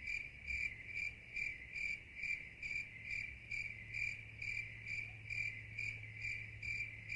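Insect chirping, like a cricket: a regular pulsed chirp repeating a little over twice a second, over a faint steady low hum.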